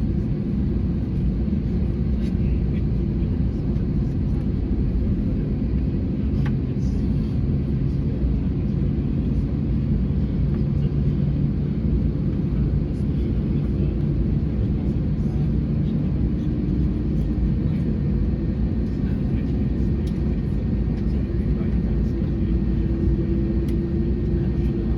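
Steady low rumble and hum inside the cabin of an Airbus A321neo on the ground, with a hum tone that rises slightly in pitch near the end.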